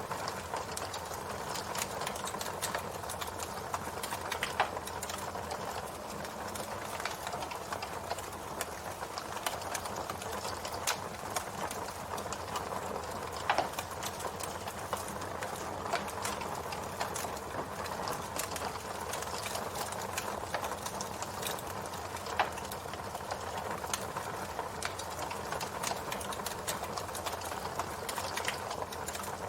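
Campfire burning, a steady hiss and crackle of wood with frequent small snaps and a few louder pops scattered through.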